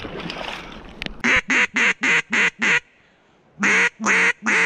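A duck call blown in a rapid series of quacks at about four a second. Six notes, a short pause, then a new series opening with two longer quacks.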